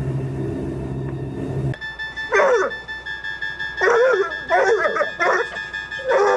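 A dog whimpering and yelping in about five short, pitched cries, after a steady low hum that cuts off a little under two seconds in.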